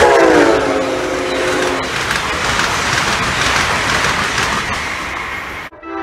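Train horn chord sounding as a train passes at speed, the chord dropping in pitch as it goes by and stopping about two seconds in. The rushing clatter of the passing train follows, cut off suddenly near the end.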